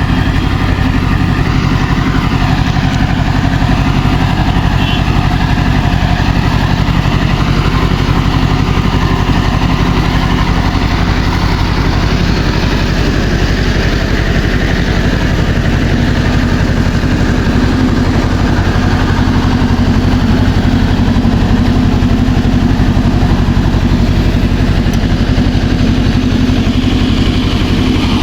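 A tractor engine running steadily, holding about the same speed throughout.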